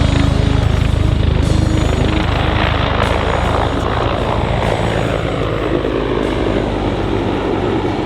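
Sikorsky MH-53E Sea Dragon helicopter flying by: a deep, rapid rotor chop under turbine whine. The whine falls in pitch over the second half as the sound eases slightly.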